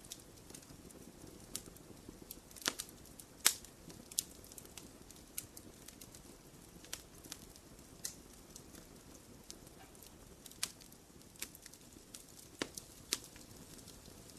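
Wood fire crackling in a fireplace: irregular sharp pops and snaps over a soft, steady low hiss, the loudest pops coming about three seconds in and again near the end.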